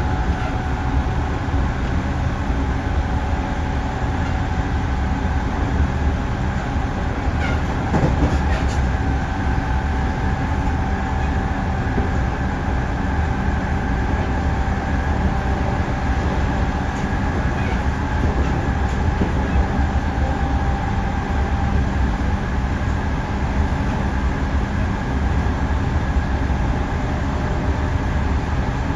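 JR Central 311 series electric multiple unit running at steady speed, heard from inside the car: a continuous low rumble of wheels on rail with a faint steady whine. A few clicks come about eight seconds in.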